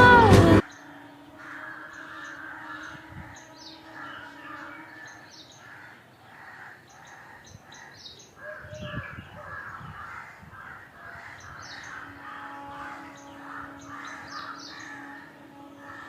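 Music cuts off about half a second in, then a flock of crows caws over and over, with higher bird chirps mixed in.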